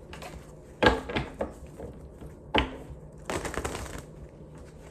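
Deck of cards being handled: a few sharp snaps and knocks, then a brief crackly riffle of shuffling near the end.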